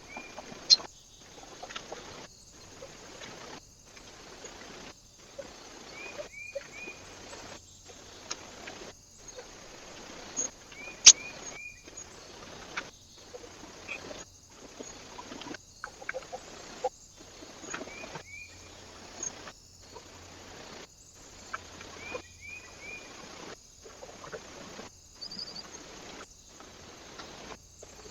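Short bird calls recurring every few seconds over a steady hiss, with scattered sharp clicks and taps, the loudest about midway. The audio is sped up and broken by brief dropouts about once a second, as in a trail-camera compilation.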